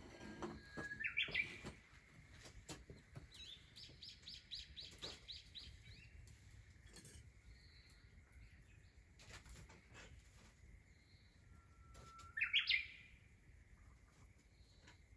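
Wild songbirds singing. Twice, a long held whistle breaks into a quick rising flourish, about a second in and again near the end; between them comes a rapid run of repeated high notes. A few faint clicks are scattered through.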